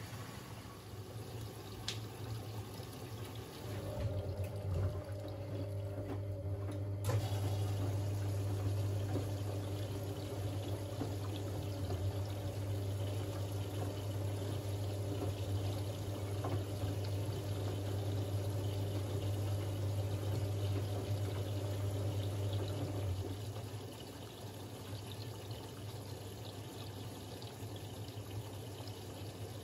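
Siemens Siwamat 6143 front-loading washing machine filling with water early in its boil-wash cycle: water rushing in through the inlet, with a steady low hum that eases off about four-fifths of the way through.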